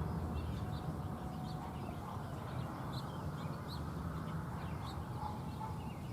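Small birds chirping now and then over a low steady rumble of outdoor background noise.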